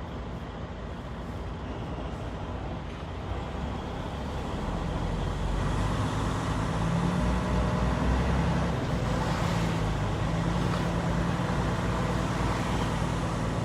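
Semi truck's diesel engine and road noise heard inside the cab while driving, a steady low hum that grows louder about halfway through.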